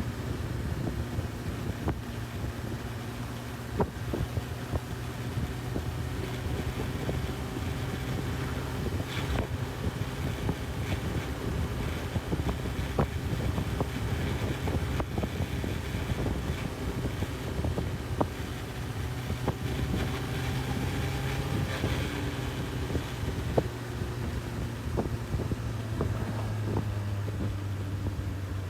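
Honda CB1000R's inline-four engine running at a steady pace while riding, with wind rushing over the microphone and a few sharp clicks.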